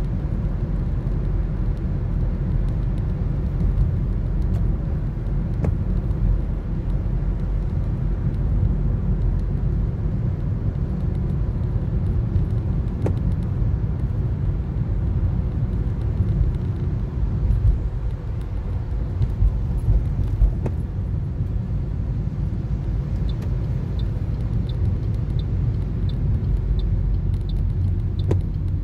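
Steady low road and engine rumble of a Toyota Corolla driving, heard from inside the cabin. In the last few seconds a light, regular ticking comes in at about two ticks a second.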